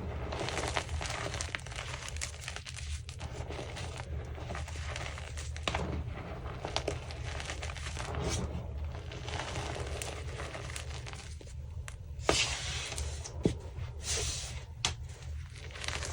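Chunks of Easy Grip France gym chalk being crushed and crumbled, a steady dry crunching and crackling with a few sharp snaps about twelve to fifteen seconds in, over a steady low hum.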